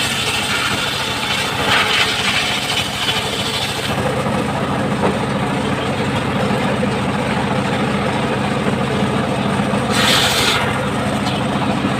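Large circular saw cutting wood: a steady machine hum from its drive, with brief hissing surges of the blade in the wood about two seconds in and again near the end.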